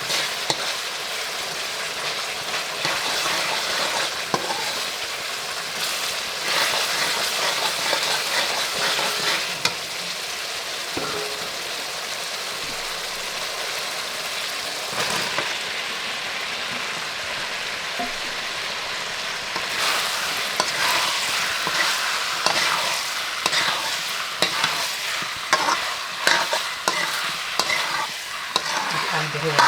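Egg and potato curry sizzling in a pan while it is stirred, the utensil scraping against the pan in short strokes that come thicker in the last ten seconds.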